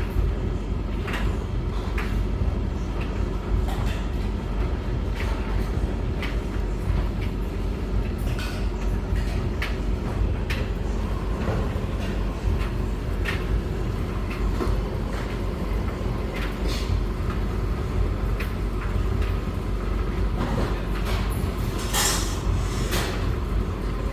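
Beko WS832425S washing machine at the start of a pre-wash, filling with water and turning its drum: a steady low rumble with scattered knocks and splashes as the load tumbles in a little water.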